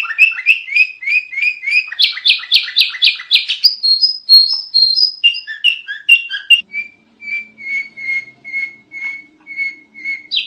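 Sooty-headed bulbul (kutilang) singing: a fast run of repeated chirping notes that switches between phrase types, then slows to evenly spaced, clear single notes at about two a second in the second half.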